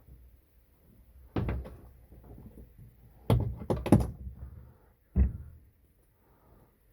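Sharp knocks and clatters of hand tools and small metal motor parts against a hard work surface: one about a second and a half in, a quick run of four or five around three to four seconds, and a last one just after five seconds.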